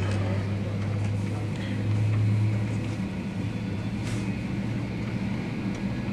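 An engine running with a steady low drone that swells slightly about two seconds in.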